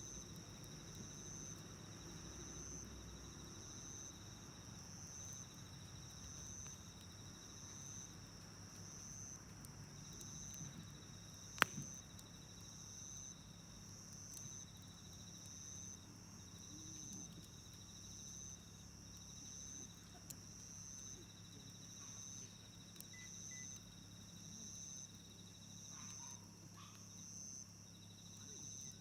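Faint insects chirping: a high chirp repeating about three times every two seconds, with a lower trill coming and going alongside it. A single sharp pop, the loudest sound, about twelve seconds in, like wood popping in the campfire.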